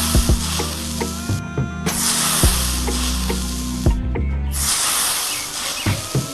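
Three bursts of loud hissing, each a second or two long with short gaps between, over background music with a beat.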